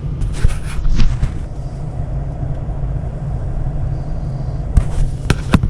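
Idling car engine heard from inside the cabin as a steady low rumble, left running to warm the vehicle and defrost iced windows. Short knocks and rustles about a second in and again near the end.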